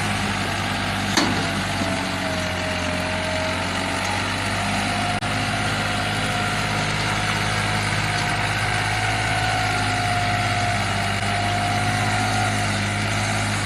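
A motor vehicle's engine running steadily with road noise, a faint whine drifting slightly in pitch above the hum, and a single short knock about a second in.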